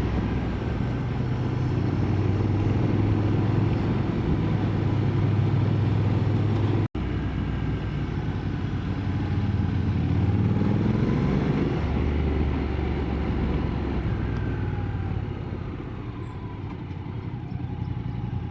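Motorcycle engine running at road speed, heard from the rider's onboard microphone, with the engine note rising and falling as the rider works the throttle through the bends. The sound cuts out for an instant about seven seconds in, and the engine eases off and grows a little quieter near the end.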